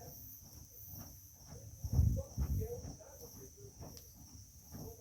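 Crickets chirping steadily in the evening. About two seconds in there are two dull low thumps close by, and faint ticks are scattered throughout.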